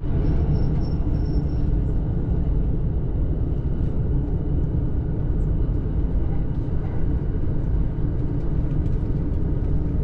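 Steady low rumble of a JR commuter train running, heard from inside the passenger car, with a faint steady high whine above it.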